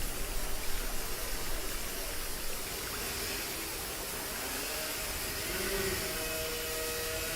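Steady rush of water from the Kali River Rapids raft ride's river. A faint humming tone joins about five seconds in.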